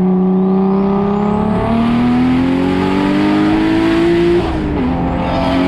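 Turbocharged BMW E36 straight-six under full-throttle acceleration: the engine note climbs steadily with a rising turbo whistle above it, drops at a gear change about four and a half seconds in, then starts climbing again with the whistle returning.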